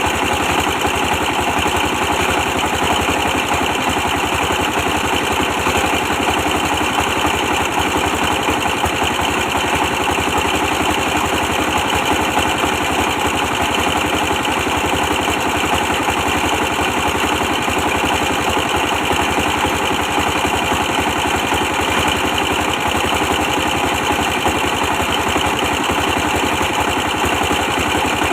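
24 hp diesel engine running steadily at a constant speed, its firing pulses even, while it drives a brick press.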